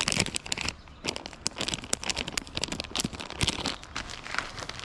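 Crinkling and tearing of a plastic bait package being opened by hand, with many quick irregular crackles.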